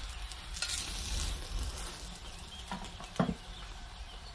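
Paratha frying in desi ghee on a hot tawa, a steady sizzle, as metal tongs turn it. Two sharp metal clicks a little after halfway, the second one louder.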